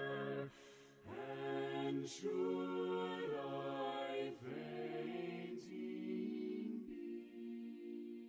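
Slow a cappella hymn sung by several voices in harmony, long notes held with short breaks between phrases.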